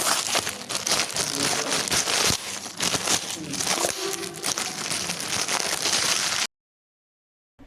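Plastic packaging crinkling and crackling rapidly as it is handled, then cutting off suddenly near the end.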